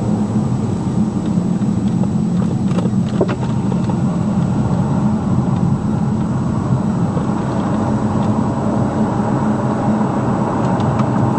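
Steady road and engine noise of a car driving, with a thin high whine throughout and a few faint clicks about three seconds in.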